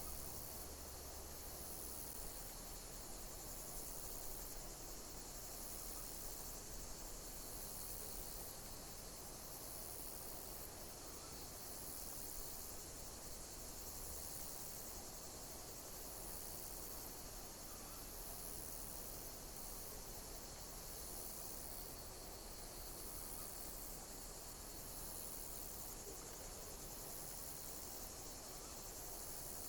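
Insects chirping in a dense, high-pitched chorus, with a call repeating about once a second over a steady insect hiss.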